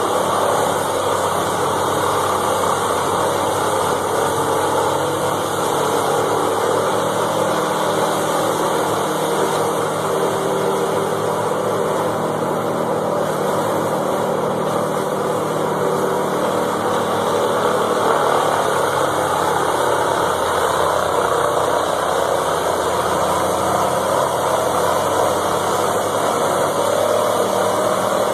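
A machine engine running steadily at an even speed, with no clear bangs or load changes.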